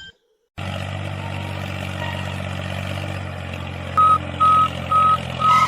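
A vehicle engine running steadily, starting about half a second in. Near the end, four short high beeps of a reversing alarm sound, about two a second.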